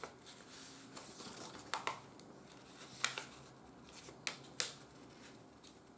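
A square sheet of paper being folded and creased by hand: faint rustling with a few short, sharp crinkles, a pair about two seconds in, one at three seconds and two more later on.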